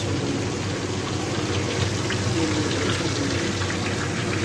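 Onion-tomato masala frying in hot oil in a pressure cooker pot: a steady sizzle with faint crackles.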